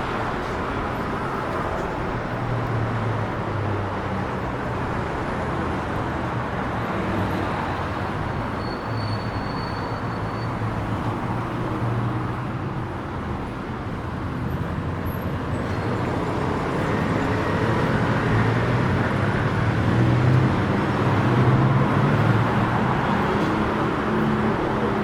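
City street traffic: steady road noise with the low hum of passing engines, growing louder in the second half as vehicles pass close.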